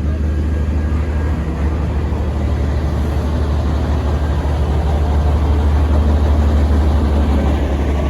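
Heavy diesel truck engine running steadily with a deep, even low rumble.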